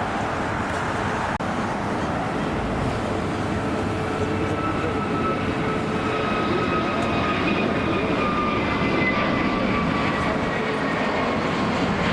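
Jet airliner engines running past with a steady roar, under a thin whine that slowly falls in pitch as the aircraft goes by.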